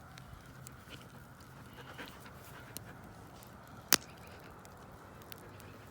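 A big puppy panting close by, steady and soft, with a single sharp click about four seconds in.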